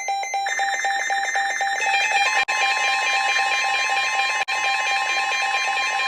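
Weather alert radio receivers sounding their alarms for a severe thunderstorm warning: several electronic beeping tones overlap. A rapid pulsed beep is joined by a higher beep about half a second in and by a steady tone about two seconds in, with two brief dropouts.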